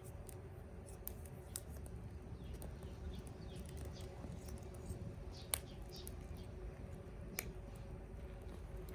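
Wood campfire crackling quietly, scattered small pops and clicks with two sharper pops in the second half, over a steady low hum.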